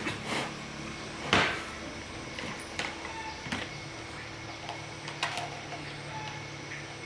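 Scattered clicks and knocks, one louder knock just over a second in, over a faint steady low hum.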